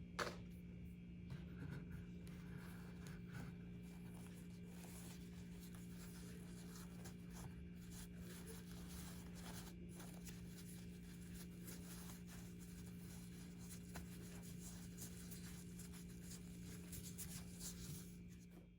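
Faint scratchy rubbing and small clicks over a steady low hum.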